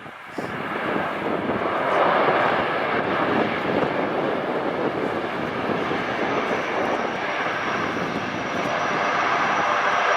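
C-130 Hercules turboprop engines running loud and steady. The sound swells about two seconds in, and a thin high whine joins from about six seconds in.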